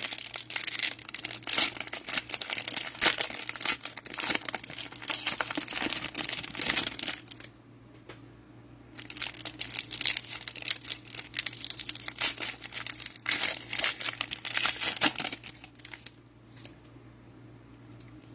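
A plastic cello-pack wrapper of trading cards crinkling and tearing as it is opened and handled. The crackling comes in two long stretches, with a brief lull about eight seconds in, and dies away to a low hum over the last two seconds.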